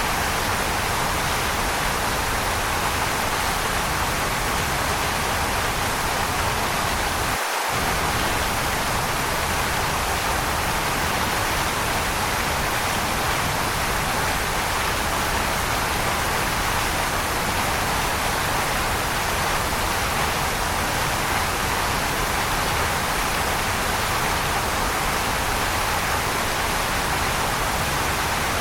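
Waterfall rushing in a steady, unbroken roar of falling water, an even hiss strongest in the mid range. The low rumble drops out for a split second about seven and a half seconds in.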